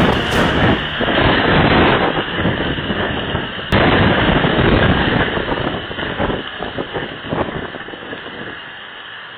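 Strong wind buffeting the microphone in rough gusts, with a sudden break about four seconds in, easing off toward the end.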